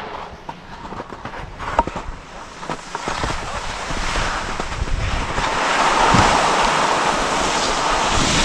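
Skis sliding and scraping over snow, with wind rushing across the microphone, swelling louder from about three seconds in. A few sharp clicks come in the first two seconds.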